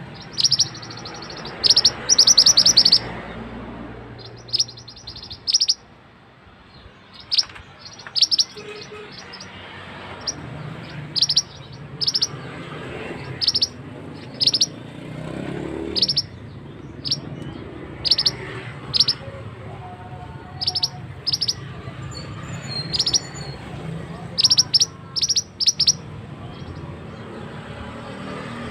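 Mantenan songbird singing short, sharp, rapid bursts of high notes, repeated about once every second or so, the kind of fast, tight 'tembakan' song used to tutor competition birds. Under it runs a steady rush of flowing water.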